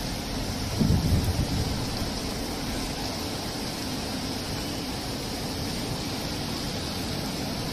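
Torrential rain falling steadily, an even dense hiss, with a brief low rumble about a second in.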